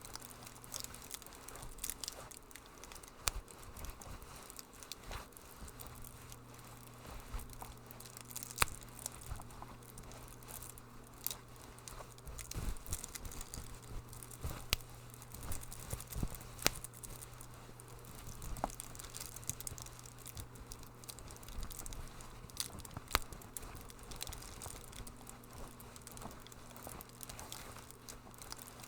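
Wood fire in a fireplace crackling, with irregular sharp pops and snaps a few times a second over a soft hiss.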